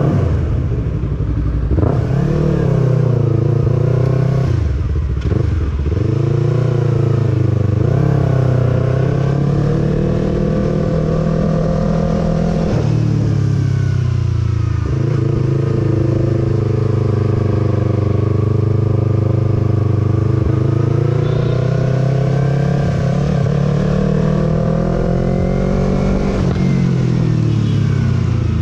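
Motorcycle engine running while riding at low city speed, its pitch rising as the throttle opens and falling when it is closed about five seconds in and again around thirteen seconds, then rising again near the end.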